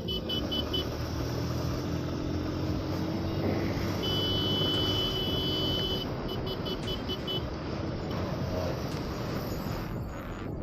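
Motorcycle engine running at riding speed with road and wind noise, the engine note rising briefly a couple of seconds in. A high electronic beep cuts through: a few short beeps right at the start, a held tone about four seconds in, then a quick string of short beeps a couple of seconds later.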